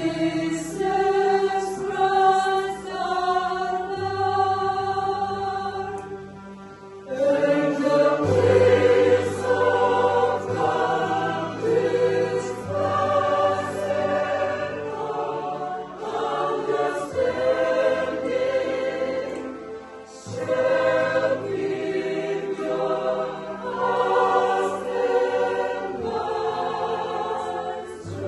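Choir singing in sustained, held notes, dropping back briefly about six seconds in before coming in fuller and louder.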